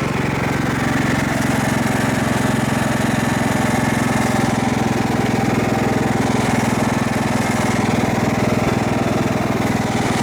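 Riding lawn mower engine running steadily at an even speed, pulling a second mower on tow.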